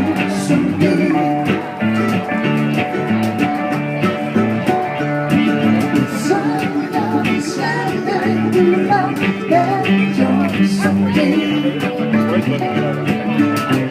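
Live acoustic band music: guitar and mandolin with hand-drum percussion such as congas, playing a steady rhythm.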